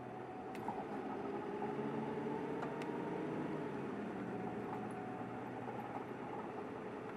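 Cabin sound of a Kanto Bus city bus under way: the engine runs with its note swelling about a second in and easing off again after a few seconds, over steady road noise, with a few light clicks and rattles.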